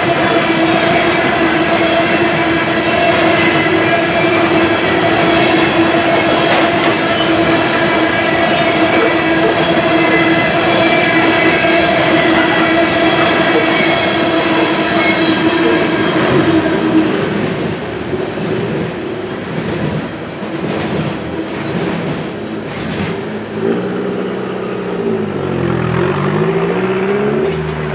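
Freight train's covered hopper cars rolling past a grade crossing, wheels clacking over the rail joints, with a steady high tone over the rolling noise. The sound drops off about 17 seconds in as the end of the train passes, and near the end a road vehicle's engine rises and falls in pitch.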